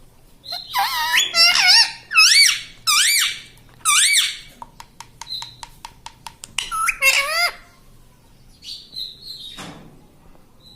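Ring-necked parakeet calling: a run of short screeching calls that swoop up and down in pitch, then a quick run of clicks, then a few more calls.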